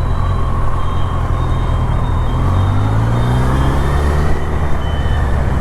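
Vehicle engine running on the road with steady road and wind rush. The engine note rises in pitch from about halfway through as the vehicle speeds up.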